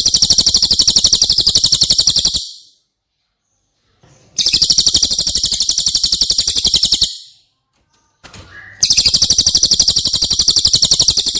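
Cililin bird singing a very fast, high, rattling trill of about a dozen notes a second, in three bursts of two to three seconds each with short pauses between them.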